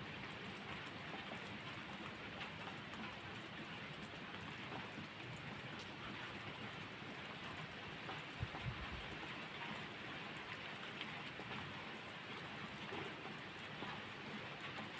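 Steady rain falling, an even hiss with scattered faint ticks. A brief low thump comes about eight seconds in.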